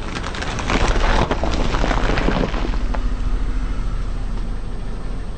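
A car tyre rolling over and crushing something brittle: a dense run of cracks and snaps over the first two and a half seconds, then one more crack about three seconds in, over the car's low engine rumble.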